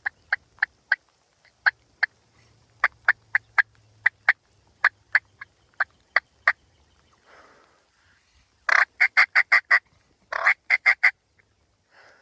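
Wild turkey clucking: a string of short, sharp single clucks at irregular spacing, then two quick, louder runs of yelping notes about three quarters of the way through.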